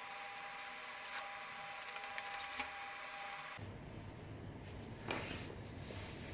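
Faint clicks and taps of parts and tools being handled over a steady background hum. The hum changes abruptly about three and a half seconds in.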